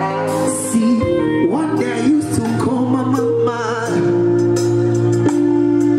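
Live band music over a PA system at a sound check: long held keyboard chords over a steady bass, with wordless sung or lead lines wavering over them partway through.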